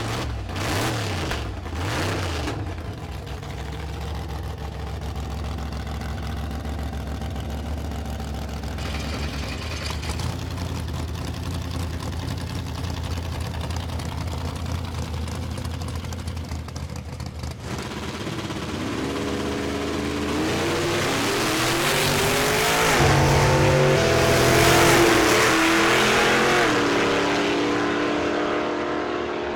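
Classic drag cars' engines rumbling steadily at low revs, then launching, revving hard and climbing in pitch through several gear changes as they accelerate down the strip.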